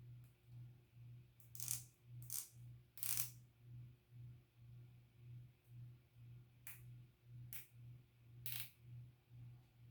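Six short scraping strokes, three in quick succession and then three more after a pause, as burrs are cleaned off freshly drilled holes by hand. A faint low hum pulses steadily about twice a second underneath.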